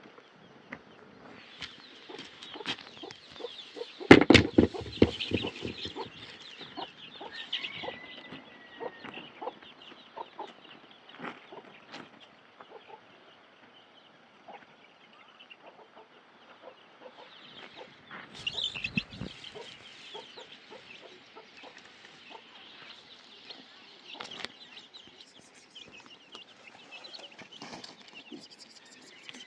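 Chickens clucking amid other bird calls, with a scatter of small knocks. About four seconds in there is a loud burst of knocks and thuds, the loudest thing here, and a smaller cluster comes around eighteen seconds in.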